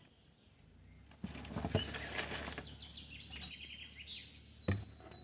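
Small birds chirping in quick runs of short, high repeated notes over a general outdoor noise, with a couple of sharp knocks.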